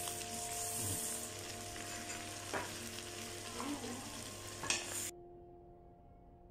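Cabbage sizzling in a frying pan, with a few light clicks. About five seconds in the sizzle cuts off abruptly, leaving only a faint steady hum.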